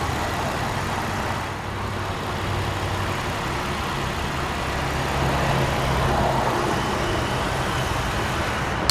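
2003 Infiniti G35 Coupe's 3.5-liter V6 idling steadily.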